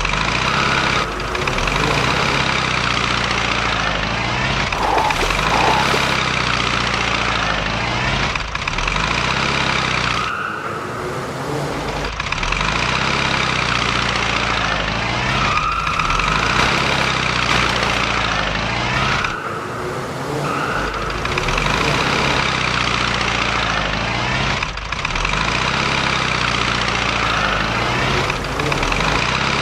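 Heavy truck engine sound effect running steadily, with a few brief breaks along the way.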